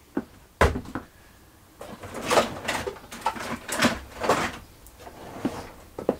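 Irregular clunks, clicks and short scrapes of tools and parts being handled, with the drill stopped.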